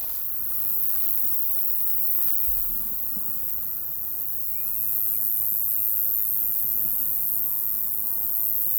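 Crickets chirring in a steady high hiss. Three short bird notes come about halfway through, and a few faint footsteps are heard in the first two seconds.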